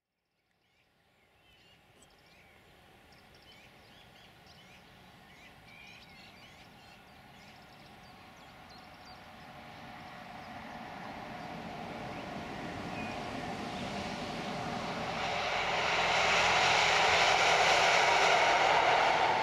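Class 950 two-car diesel multiple unit test train approaching and passing: its engine and wheels on the rails grow steadily louder to a loud peak over the last few seconds. Birds chirp faintly before the train draws near.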